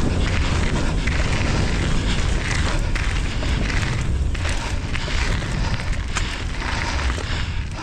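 Wind buffeting a helmet- or body-mounted action camera's microphone during a mountain bike descent, a heavy low rumble, with tyre noise on the dirt trail and frequent short rattles and knocks from the bike over bumps.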